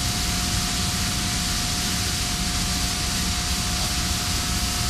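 Steady, even hiss of industrial plant noise, with one constant whine above it and no change throughout.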